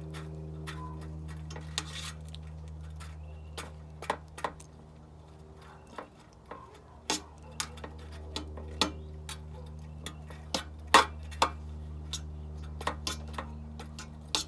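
Irregular sharp clicks and taps from grooming a dog's curly coat as its leg is combed out, unevenly spaced, with the loudest about 11 seconds in. A steady low electrical hum runs underneath.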